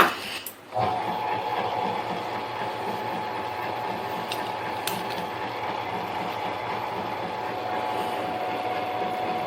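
Harbor Freight mini lathe: a few clicks and knocks, then about a second in it starts up and runs steadily, its motor and gear train giving off a constant whine.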